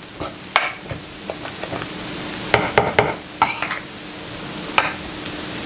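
Hand potato masher working through boiled potatoes with butter and milk, a soft wet squishing broken by about half a dozen sharp clicks and knocks of the masher against the bowl.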